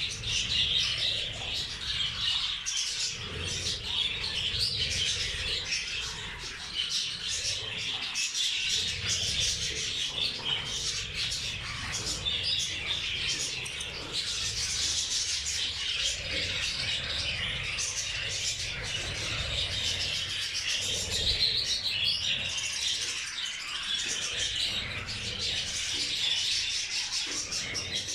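A flock of budgerigars and zebra finches chirping and chattering continuously, with a low rumble underneath.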